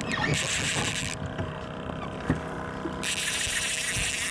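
Fishing reel drag buzzing as a hooked queenfish takes line. The buzz drops out about a second in and starts again near the end.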